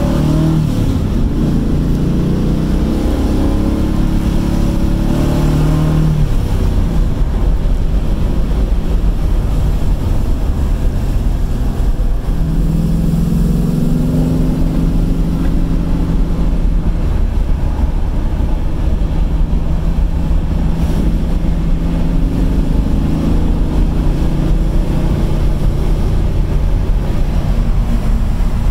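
A 1969 Camaro's LS1 V8 driving under load, heard from inside the cabin. Its pitch rises under acceleration a few times and eases off in between, under heavy wind noise through the open windows.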